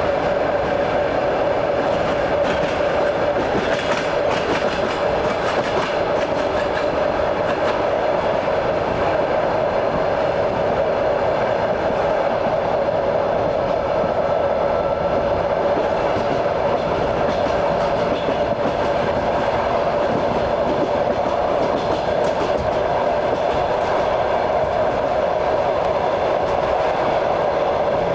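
Passenger train running along the track, heard from on board: a steady rumble with the wheels clattering over rail joints.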